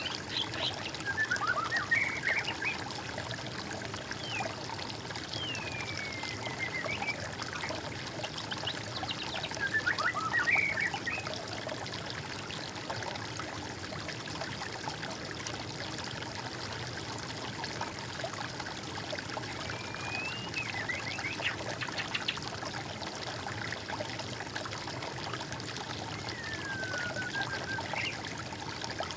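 Water trickling steadily, with songbirds calling over it: a few falling slurred whistles and short bursts of rapid chatter, the loudest about two and ten seconds in.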